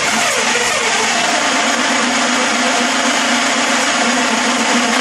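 1933 Chevrolet's electric starter cranking the six-cylinder engine steadily without it firing: the engine is starved of fuel and still needs priming.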